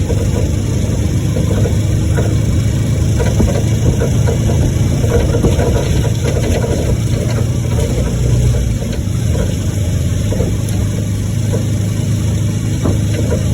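An engine running steadily: a loud, low, even rumble.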